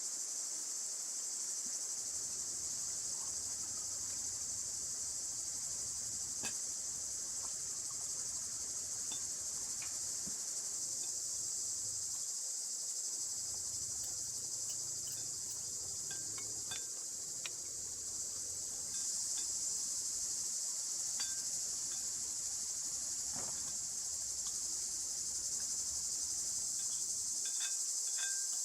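Crickets chirring in a steady high-pitched drone that grows a little louder about two-thirds of the way through, with scattered faint light clicks and taps.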